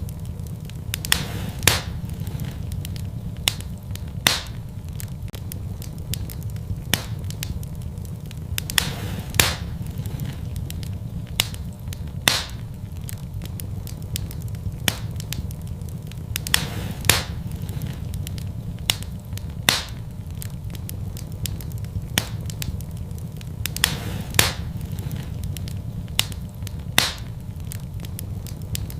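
Fireplace fire crackling: sharp, irregular pops every second or few over a steady low rumble.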